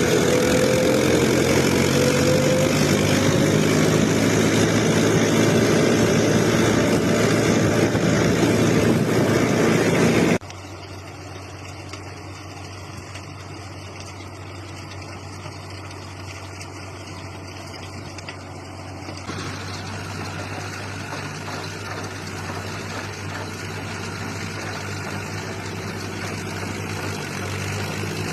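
Massey Ferguson tractor engine running, loud for the first ten seconds with a rise in pitch near the start, then cutting suddenly to quieter, steady running that grows slightly louder toward the end.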